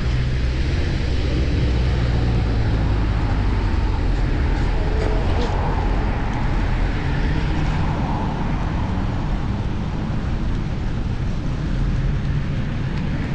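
Road noise heard from a bicycle-mounted action camera while riding in city traffic: passing cars and a steady low rumble of wind and road on the microphone.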